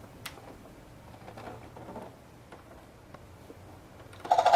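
Faint clicks and taps of a plastic toy helicopter being handled and switched on. Near the end, the toy's electronic helicopter sound starts loud from its small built-in speaker: a fast, pulsing rotor chop.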